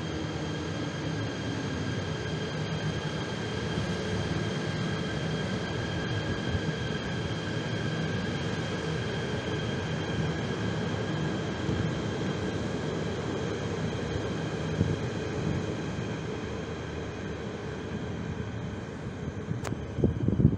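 KTM ETS electric train approaching along the track, a steady rumbling noise with a thin high whine, growing louder near the end as it draws in close underneath.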